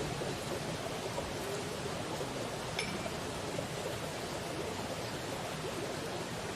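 Steady rushing noise like running water, with one faint click about three seconds in.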